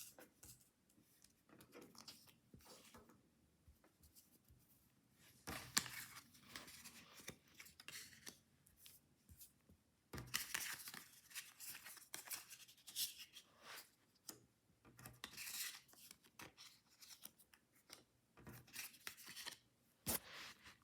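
Hands opening small toy packaging: irregular rustling and tearing of wrappers with light clicks, louder stretches about six and ten seconds in.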